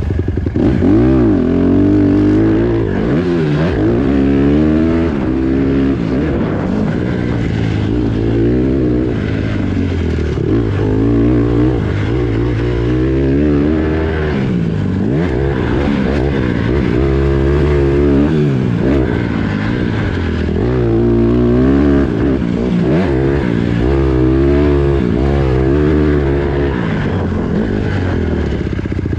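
Pit bike engine being ridden hard around a dirt track. Its pitch climbs and drops again and again as the throttle is opened and closed.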